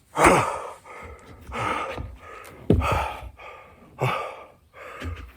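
A man breathing hard and fast in heavy, gasping pants, about eight breaths in five seconds. He is out of breath from a hard set of burpees.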